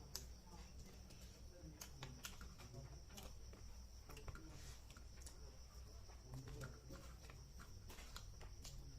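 Close-miked eating sounds of pork ribs and rice being chewed: soft, scattered mouth clicks and smacks at irregular intervals, heard over a low steady hum.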